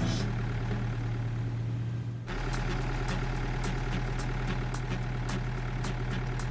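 Cartoon vehicle engine sound effect running steadily with a low hum, which breaks off briefly about two seconds in and then resumes at a slightly different pitch.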